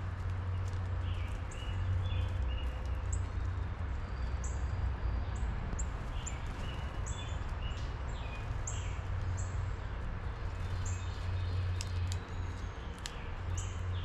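Wild songbirds calling with many short, high chirps scattered throughout, and a few lower notes, over a steady low rumble.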